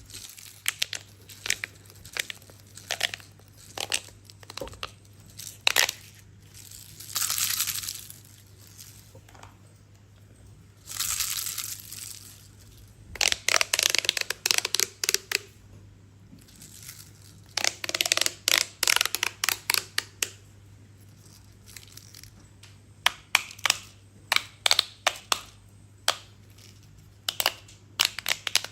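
Close-up handling of plastic: short bursts of crinkling and rustling, with runs of rapid clicks and taps between them.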